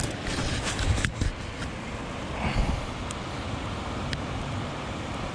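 Small mountain creek running steadily, with a couple of short knocks or splashes about a second in.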